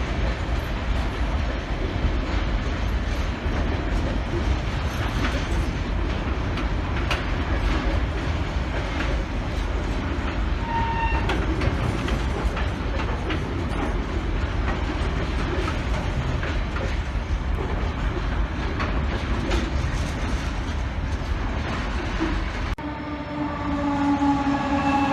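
A train running past, with a steady rumble and repeated clicks of wheels over rail joints. Near the end the sound cuts, and a loud pitched tone begins, falling slightly in pitch.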